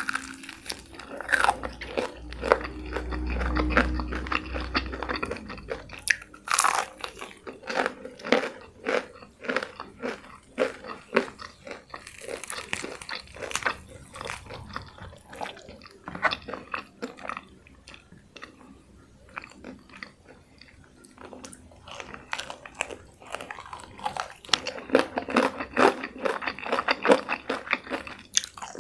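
Close-miked biting and chewing of crispy fried chicken: many irregular crunches and wet chewing, with a low muffled rumble from about two to five seconds in.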